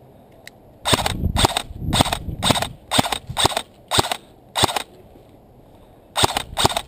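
Airsoft gun firing a string of eight sharp shots about half a second apart, then two more after a pause of about a second and a half.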